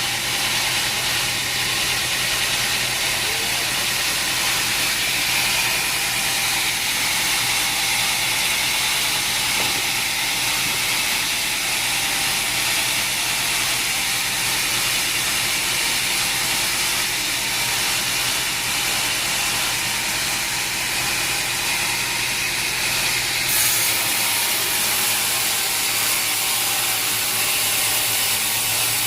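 Sawmill machinery running steadily: a loud, even hiss over a low hum. The lowest rumble drops away about 24 seconds in.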